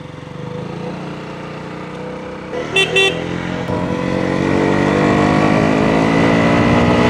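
Motorcycle engine pulling away, its note climbing and then holding steady as it gathers speed, with two short horn beeps about three seconds in.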